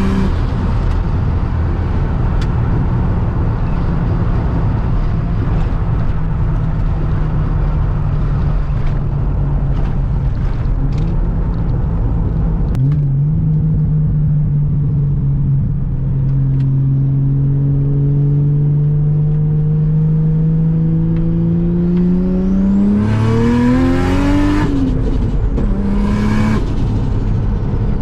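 Turbocharged Nissan Stagea engine pulling on the road: it settles after a drop in revs at the start and cruises, shifts about halfway through, then the revs climb steadily for several seconds to a peak before falling away at a gear change and picking up again briefly near the end.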